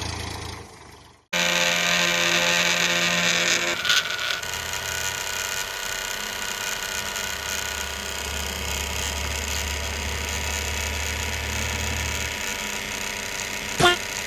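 Small electric motor and gearing of a homemade model tractor running steadily. It cuts out to silence about a second in, then starts again abruptly. There is one sharp click near the end.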